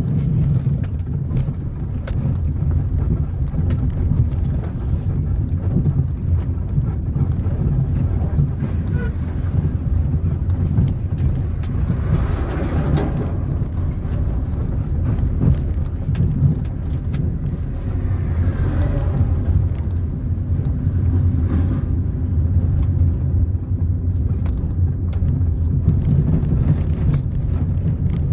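Car driving along a road: a steady low rumble of engine and tyre noise, with two brief swells of louder noise about twelve and nineteen seconds in.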